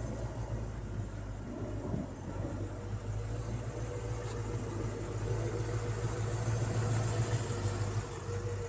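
Steady low mechanical hum with a faint constant high whine, like running machinery or an idling engine.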